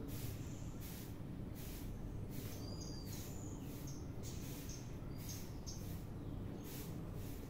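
Small birds chirping with short, high whistled notes. Underneath runs a hiss that pulses about every two-thirds of a second, over a steady low rumble.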